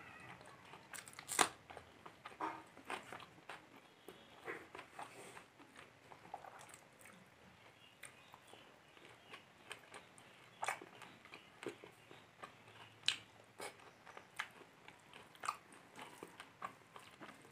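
Close-miked chewing and wet mouth clicks of a person eating rice and fish curry by hand, with fingers mixing rice on a steel plate. Scattered, irregular sharp clicks, the loudest about a second and a half in.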